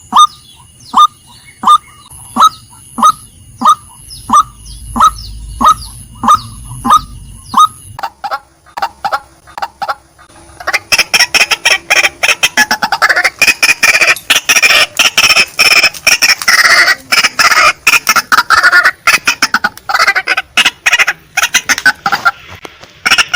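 Female white-breasted waterhen calling: short, sharp notes repeated about every half second for the first eight seconds, thinning out, then breaking into a fast, dense, loud chattering from about eleven seconds in.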